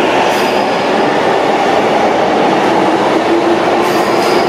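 Keihin-Tohoku line commuter train pulling out of the platform, its cars rolling past with a steady rumble. A faint high wheel squeal comes in near the end.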